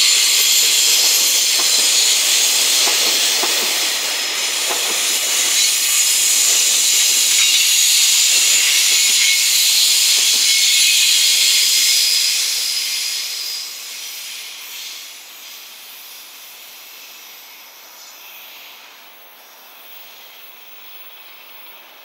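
Container wagons of a freight train rolling past on the rails: a loud, high-pitched hiss of steel wheels on track. The hiss dies away from about twelve seconds in as the end of the train goes by.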